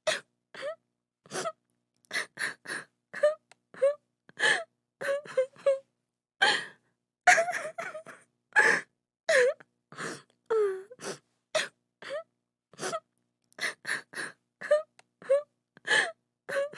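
A woman sobbing: short broken cries and sharp gasping breaths in quick runs, some cries bending down in pitch, with brief silences between them.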